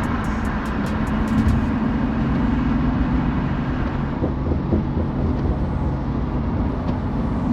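BMW F82 M4's twin-turbo inline-six running at fairly steady revs while the car drives along, with road noise underneath.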